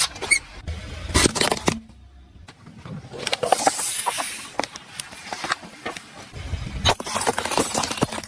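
A car rolling over objects and crushing them: a run of sharp cracks and crunches, with a hissing, crackling stretch in the middle.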